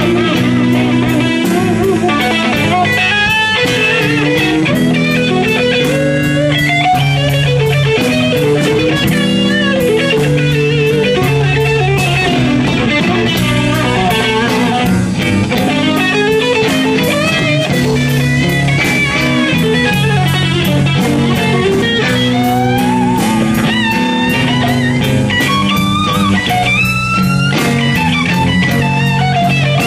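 Live electric blues: an electric guitar playing lead lines with many string bends over a steady low accompaniment and drums.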